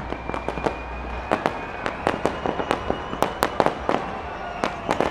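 Fireworks going off: a rapid, irregular string of sharp bangs and pops, several a second.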